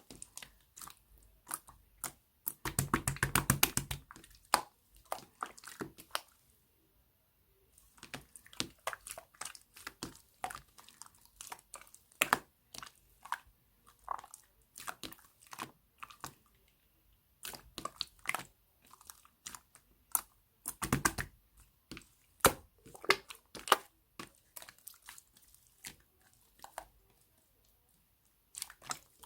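Milky slime being squeezed, pressed and poked by hand, giving sticky clicks and air-bubble pops at uneven intervals, with runs of rapid crackling about three seconds in and again around twenty-one seconds.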